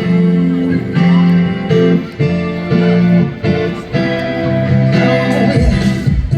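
Live band music with a strummed guitar and sustained chords changing in a steady rhythm: the opening of a pop song.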